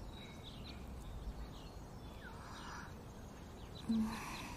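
Quiet room ambience with faint bird chirps now and then, and a brief low sound near the end.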